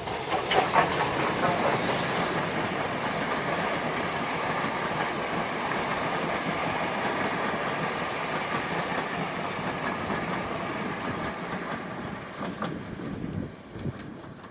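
Steam-hauled train passing close by: a loud rush as it arrives, then the carriages rolling past with the wheels clicking over the rail joints. It fades away near the end.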